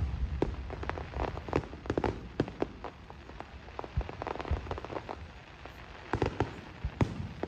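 Fireworks display: many irregular sharp pops and crackles, several a second, with a few heavier bangs, over a steady hiss.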